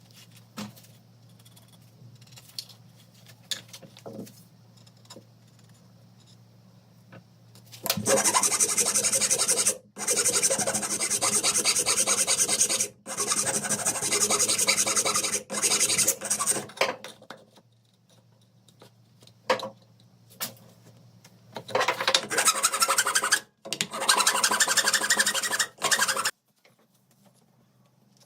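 Rasping, abrasive scraping on metal while rust is worked off rifle parts. It comes in long runs of strokes with brief pauses: a few light clicks at first, then a long stretch of scraping starting about eight seconds in, and a second stretch near the end.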